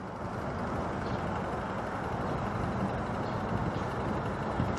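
Steady low rumble of background traffic, with no distinct events.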